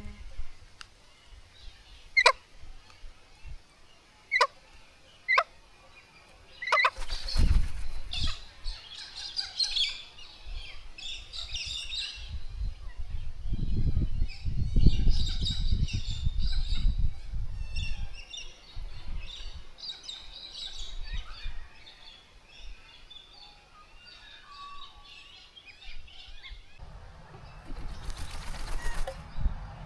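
Birds at a bird bath: wings flapping and water splashing in several bursts, with a few sharp taps in the first seconds and soft chirping calls in between.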